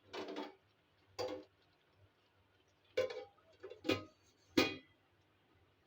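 Five short knocks and clatters, a second or so apart, from small household objects being handled and set down; the last one rings briefly.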